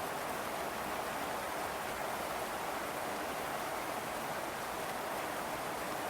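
Steady rain, an even hiss with no music over it.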